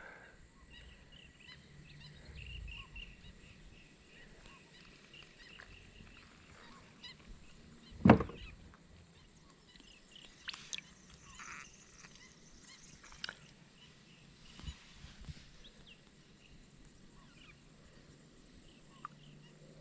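Faint bird calls in the background, with a single sharp knock about eight seconds in and a few lighter clicks after it.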